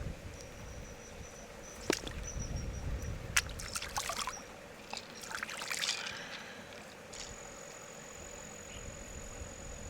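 Water trickling and splashing in short bursts, with a few sharp clicks. A thin, steady high tone comes in about seven seconds in.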